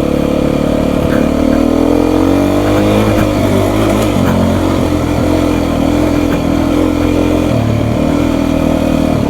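Beta 350 RR single-cylinder four-stroke dirt bike engine running under throttle, the revs rising from about a second in, wavering, then holding fairly steady.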